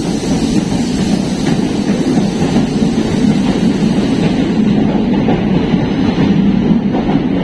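Passenger train running, heard from on board: a loud, steady rumble, with the high hiss dying away about four and a half seconds in.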